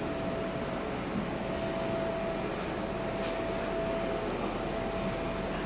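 Steady hum inside a stationary electric train carriage, with a thin constant whine over it: the carriage's onboard equipment running while the train stands at the platform.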